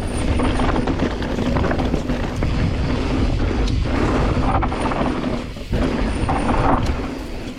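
Specialized Turbo Levo electric mountain bike being ridden on a dirt trail: a steady rough noise of the tyres on loose ground, with the bike's parts rattling.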